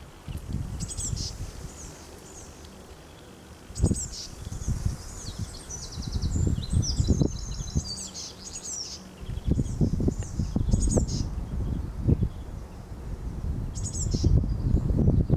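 Songbirds singing outdoors: short, quick, high phrases of varied notes, repeated every few seconds. Under them a louder low rumble comes and goes in gusts.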